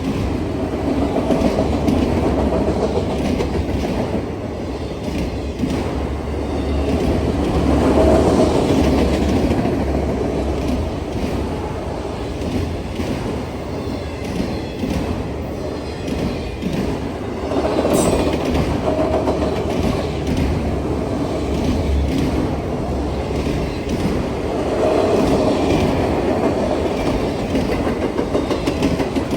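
Freight train cars rolling past at a road crossing: a steady heavy rumble with wheels clicking over the rail joints, swelling and easing as cars go by, and a brief sharp squeal about two-thirds of the way through.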